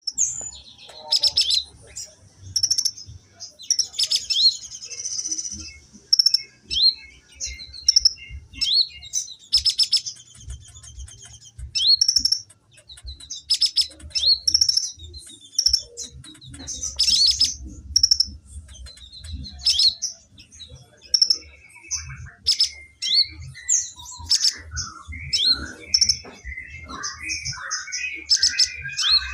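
A songbird singing vigorously: a long run of sharp high chirps and short rising whistles, a note every second or so. About three quarters of the way through, lower warbling phrases join in.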